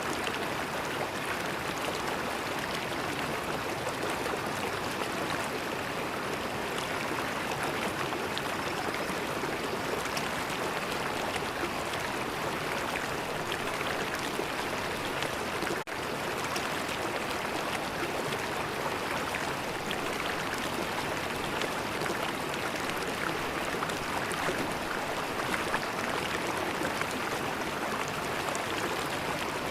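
River water flowing, a steady rushing with fine gurgles and splashes. A split-second dropout breaks it about halfway through.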